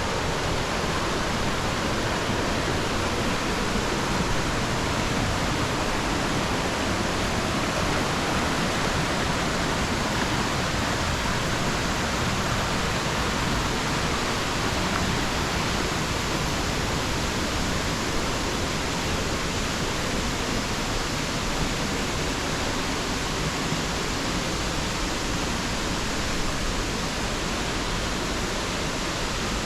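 Waterfall at low flow, with its water coming down in a single strand at one edge, falling steadily onto the rocks and pool below: an even, unbroken rushing.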